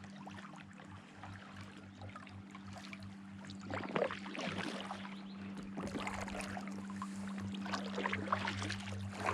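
Paddles dipping and water splashing and dripping around a boat on a lake, the splashes getting busier and louder about four seconds in, over a steady low hum.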